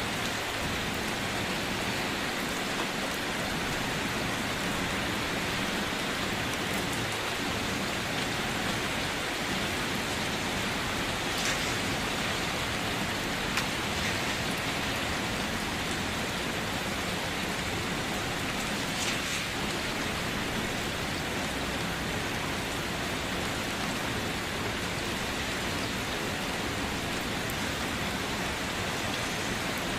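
Steady rain falling and pattering on a surface, with a few louder drop ticks now and then.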